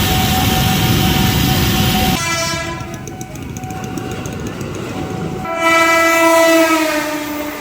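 KRL electric commuter train running past, with loud rumbling noise for the first two seconds. Then it sounds its horn: one long note, followed by a louder blast that drops slightly in pitch as it ends.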